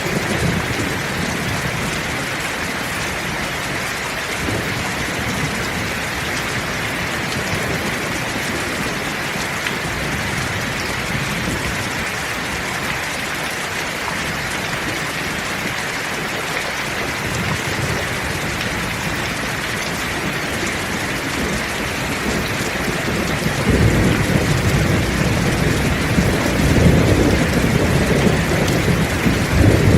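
Heavy rain falling steadily in an even hiss, with low thunder rumbling now and then; the thunder grows louder and longer for the last several seconds.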